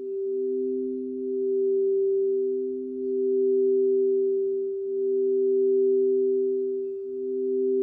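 Crystal singing bowls sounding in a steady, pure two-note drone, one pitch above the other. The lower tone drops out briefly every couple of seconds and the volume swells and ebbs in slow waves.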